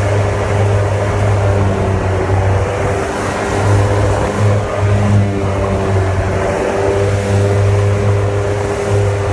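Jet boat engine running steadily, a loud, even drone with no breaks.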